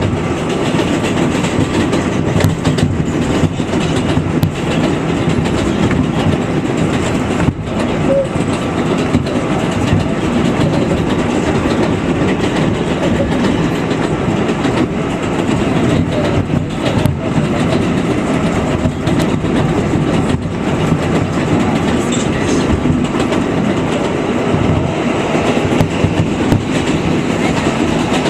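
New York City Subway 7 express train running along the track, a steady loud wheel-and-rail running noise with scattered faint clicks and a brief dip in level about a third of the way through.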